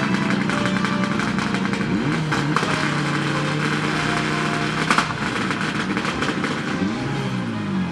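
Rally car engine running and revving, its pitch sweeping up twice, with a sharp crack about five seconds in.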